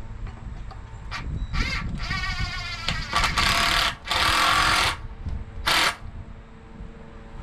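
Cordless drill or impact driver driving screws into wooden form boards in several short runs. One run has a wavering motor whine, and two longer runs come in the middle.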